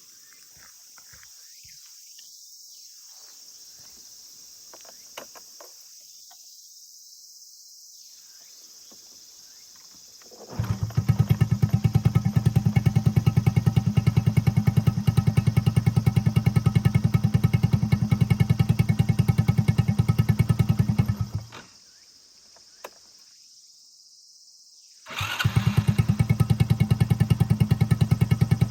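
Honda Jorcub's single-cylinder four-stroke engine, bored up to a Takegawa 81cc kit with an aftermarket muffler, starting about ten seconds in and idling with an even, rapid exhaust beat, then shut off, and started again a few seconds later to idle on.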